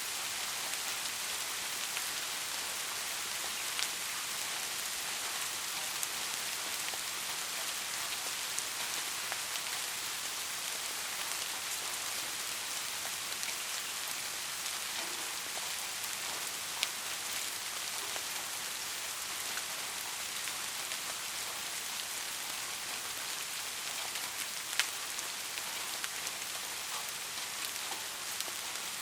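Steady soft rain falling, an even hiss with scattered sharper drop ticks, two of them standing out in the second half.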